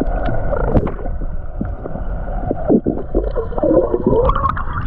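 Water gurgling and sloshing around a camera at or under the surface, a muffled rumble with bubbly gurgles that grow busier in the second half.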